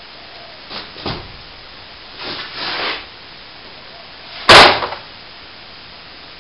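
Work noises: two light knocks, a short scraping, then one loud sharp bang with a brief rattle about four and a half seconds in.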